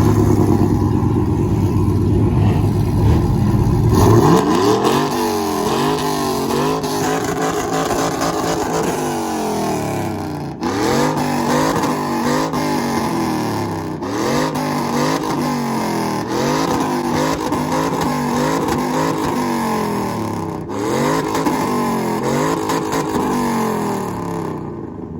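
A heavy engine rumble for about four seconds, then a truck engine revved again and again, its pitch climbing and dropping every second or two, broken by a few sudden cuts.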